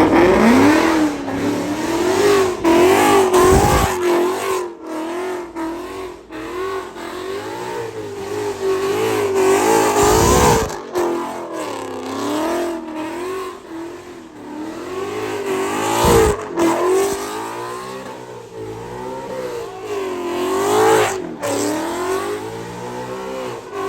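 Car engine revving up and down over and over as the car slides around, with tyre noise swelling on the peaks.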